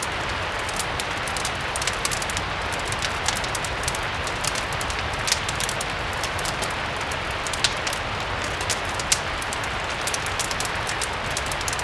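Steady rain, an even hiss, mixed with a crackling wood fire: scattered sharp pops and clicks throughout, with a few louder pops in the second half.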